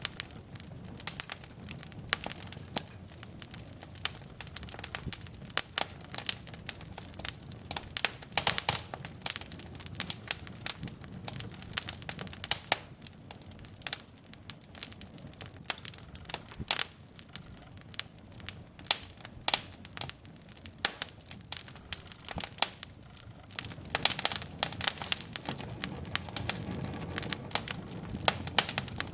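Wood logs burning in a fireplace: irregular sharp crackles and pops over a low steady rush of flame, the pops coming thicker near the end.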